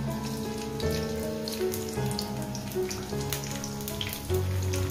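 Crushed shallots sizzling and crackling in hot coconut oil in a wok, under background music with held notes.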